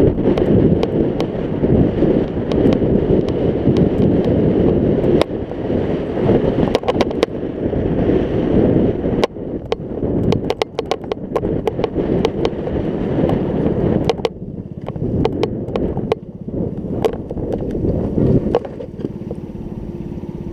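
Wind buffeting the action-camera microphone while riding, a loud rumbling noise with many sharp clicks and knocks scattered through it. It eases a little after about fourteen seconds.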